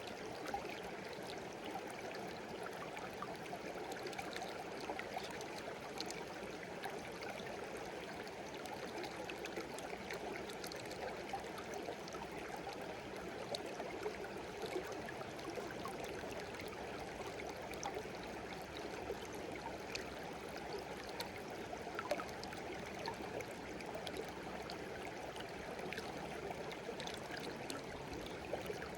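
Shallow stream babbling and trickling over stones, a steady rush of water with small splashes and droplet ticks scattered through it.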